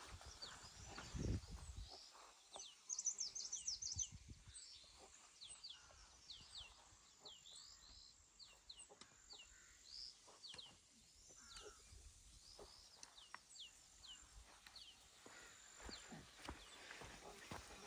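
Faint, quick high chirps of small birds, repeating throughout, with scattered soft clicks and a brief low rumble in the first two seconds.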